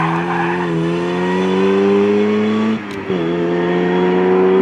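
A performance car's engine accelerating hard, rising in pitch through one gear, dropping briefly for an upshift about three seconds in, then climbing again. A little tyre squeal fades out just at the start.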